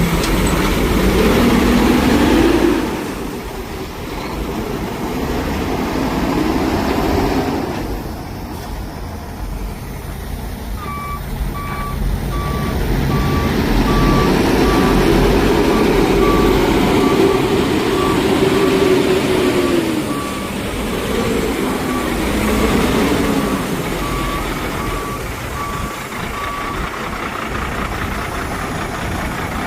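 Cat C13 diesel engine of a 2007 International 7600 sewer vacuum truck running, its pitch rising and falling several times. A reversing alarm beeps steadily from about eleven seconds in and stops a few seconds before the end.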